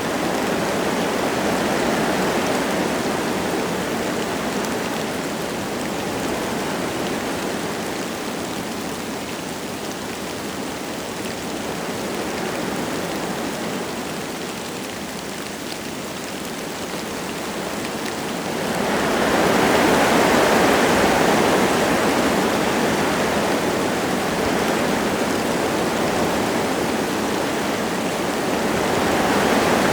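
Wind gusting through forest trees with light rain falling: a steady rushing that swells into a stronger gust about two-thirds of the way in and rises again near the end.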